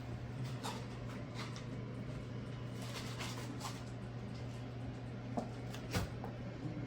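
Light clicks and knocks of kitchen handling over a steady low hum, with a sharper knock about six seconds in.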